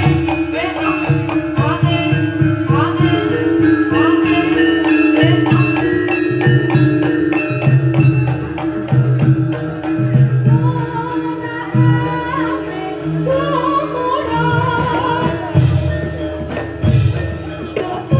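Live traditional Javanese reog/jaranan music: drums play a busy beat under a steady held note, with a wavering high melody that grows stronger about ten seconds in.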